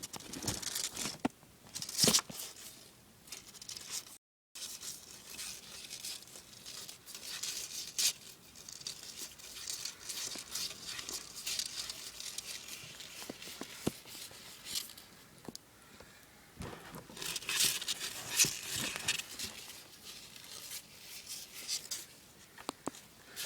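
Crackling and rustling in irregular bursts with scattered sharp clicks as a baby savannah monitor feeds on crickets, crunching prey and shifting about, with a brief dropout about four seconds in.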